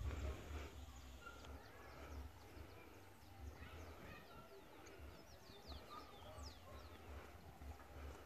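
Faint birds chirping in short, quick falling calls, thickest in the middle, over low wind rumble on the microphone.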